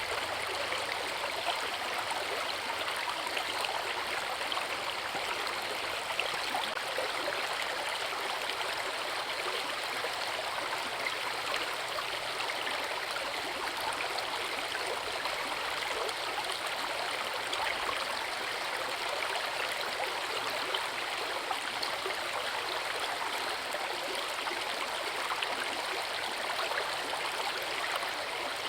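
Forest river water rushing and splashing steadily over rocks, an even, unbroken noise.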